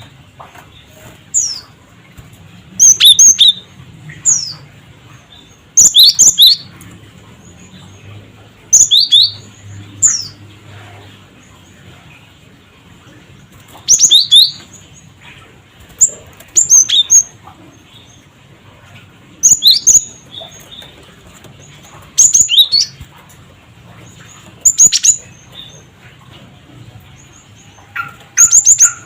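Cinereous tit (gelatik batu) calling: short bursts of sharp, high notes that slide down in pitch, the 'cret cret wucit' calls, repeated every two to three seconds.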